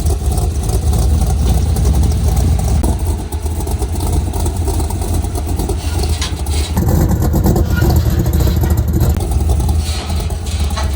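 A car running: a steady, loud, low engine drone with road and wind noise.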